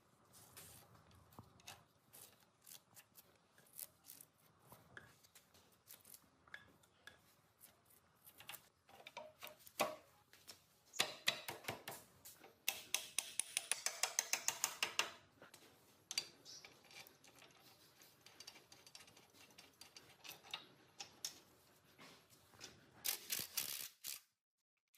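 Metal parts and hand tools clicking and tapping during workshop work. A rapid run of sharp clicks, about eight a second, lasts a couple of seconds near the middle, and another cluster of clicks comes near the end.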